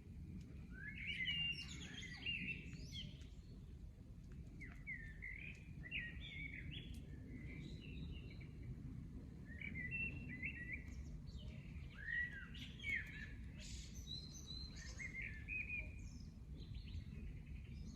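Small birds chirping and singing in short, repeated phrases over a steady low background rumble.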